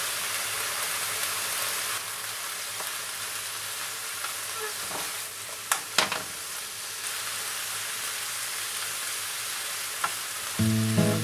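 Chopped daikon leaves sizzling as they stir-fry in a frying pan while a wooden spatula turns them. There are two sharp clicks about six seconds in, and music comes in near the end.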